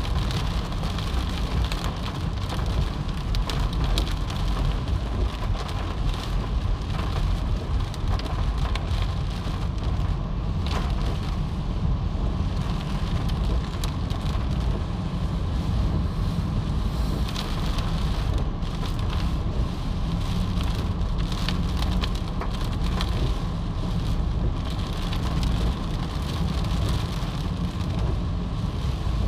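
Heavy monsoon rain in strong wind: a steady rain hiss over a deep, continuous rumble, with scattered sharp ticks of drops.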